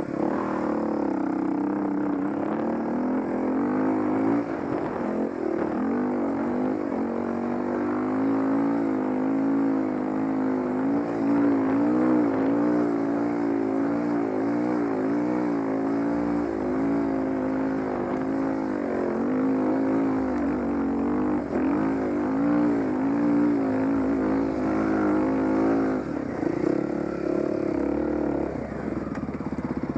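Dirt bike engine running under throttle while riding, its pitch rising and falling continually with the throttle.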